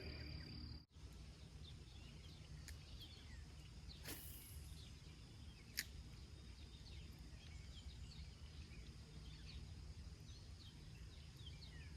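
Faint outdoor ambience: many short, falling bird chirps over a low steady rumble, with a single sharp click about six seconds in.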